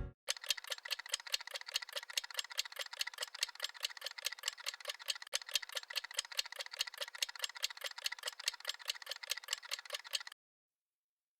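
Steady, even ticking of about six sharp clicks a second, with no low end. It cuts off abruptly near the end into dead silence.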